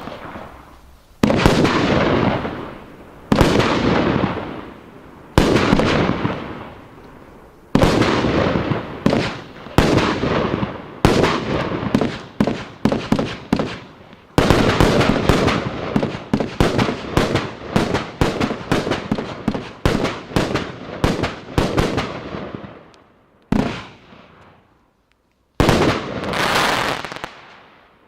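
Fireworks battery (cake) firing its shots: sudden bangs, each trailing off over a second or two. They come about two seconds apart at first, then speed up into a dense rapid volley through the middle, and end with two more spaced shots.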